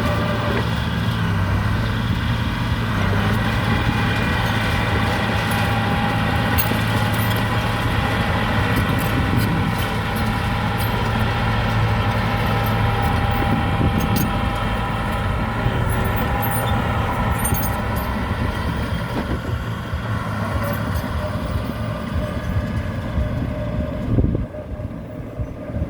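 Heavy machine's engine running steadily, with a constant low hum and a whine above it; the sound peaks briefly and drops away near the end.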